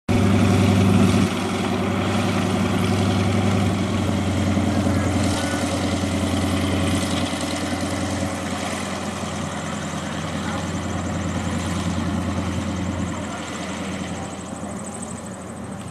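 Sukhoi Su-31's nine-cylinder radial engine and propeller running steadily, slowly fading over the last few seconds.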